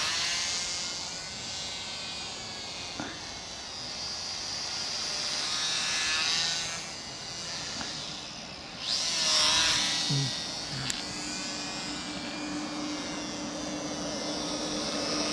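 High-pitched whine of the WLToys F949 Cessna-182 RC plane's three small brushed electric motors in flight. The whine wavers in pitch and swells and fades as the plane flies about, loudest as it passes close about nine seconds in.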